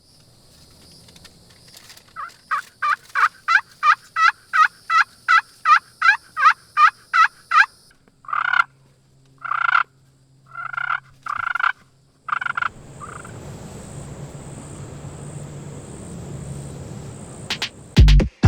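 Wild turkey calling: a quick run of about fourteen yelps, then four longer calls, over a steady high-pitched whine. A loud hit comes at the very end.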